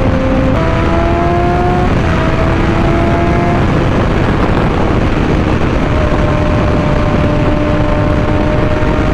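Suzuki GSX-R600 inline-four engine under way with heavy wind rush. The engine note climbs, drops about two seconds in at an upshift, climbs again, then holds steady while cruising.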